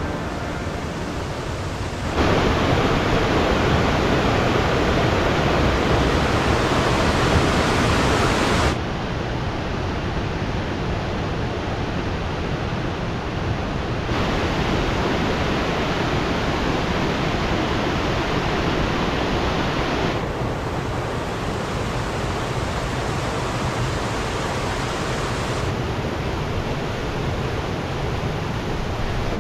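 Steady rushing water of a mountain stream and its waterfalls. It jumps abruptly louder or softer and brighter or duller about every five or six seconds.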